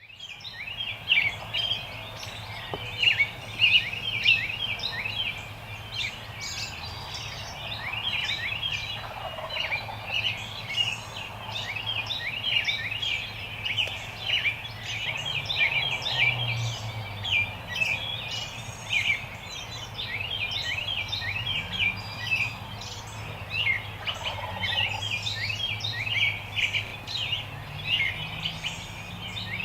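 A chorus of songbirds chirping and singing without pause, with an eastern wild turkey gobbling faintly twice, about a third of the way in and again near the end.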